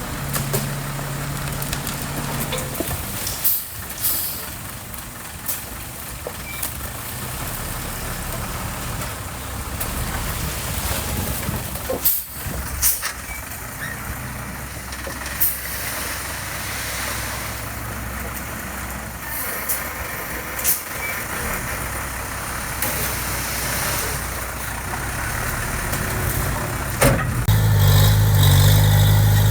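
Heavy construction machinery engines running steadily, with scattered sharp clanks and hisses. About 27 seconds in, an engine revs up and becomes much louder.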